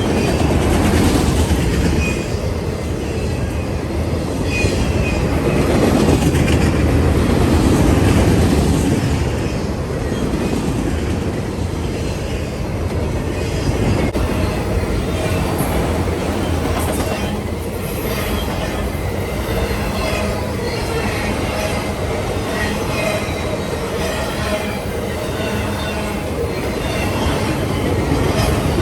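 Train rolling past: a steady rumble of rail cars, with the wheels clicking over rail joints and squealing now and then.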